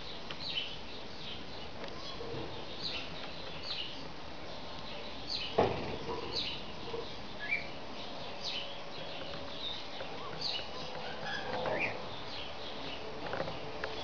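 Budgerigar chirping: many short, high, falling chirps with a few rising notes and a brief warble near the end. A single sharp knock about five and a half seconds in.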